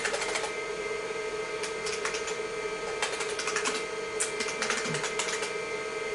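Typing on an IBM PC keyboard: several quick bursts of sharp, clacky keystrokes with short pauses between them, over the steady hum of the IBM PC XT running.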